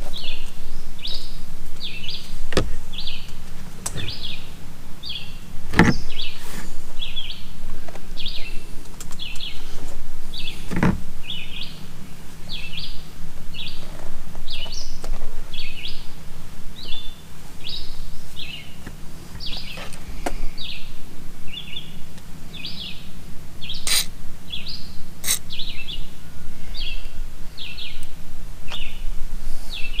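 Steady, evenly repeated high chirps, about two a second, from a chirping animal, with a few sharp knocks scattered through, the loudest about six and eleven seconds in.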